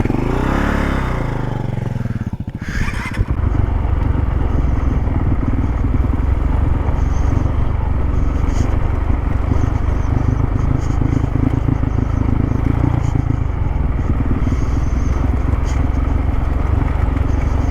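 Dual-sport motorcycle engine revving up and falling back, then running steadily under way with heavy low wind rumble on the microphone.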